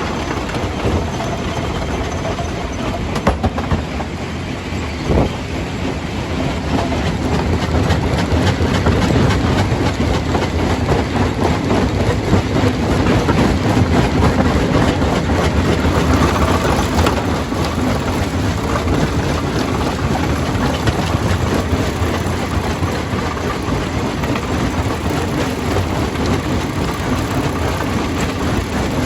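Stone crusher running and crushing rock: a continuous dense rattle of stones knocking and grinding over a steady machine drone, somewhat louder for several seconds in the middle.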